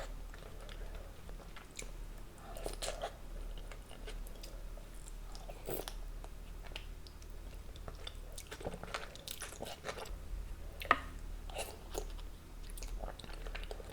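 Close-miked eating sounds: a person chewing and biting food, with scattered wet crackles and crunchy clicks, one sharp click about eleven seconds in.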